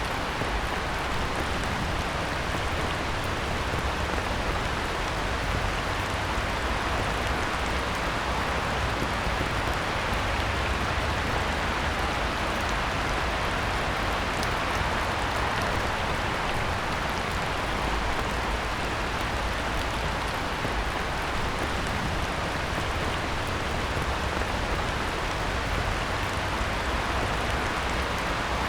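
Heavy rain falling steadily on a pond's surface: a dense, even hiss of drops with no let-up.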